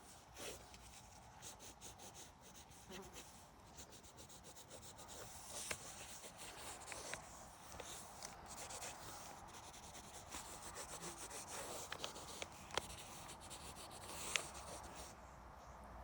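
Drawing strokes scratching and rubbing on paper, faint and irregular, with a few sharper taps of the drawing tool.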